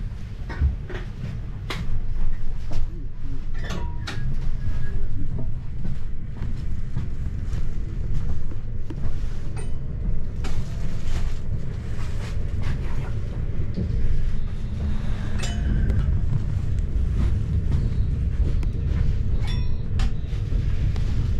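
Cabin noise of an electric commuter train pulling out and gathering speed: a steady low rumble of wheels and running gear, with scattered clicks and knocks.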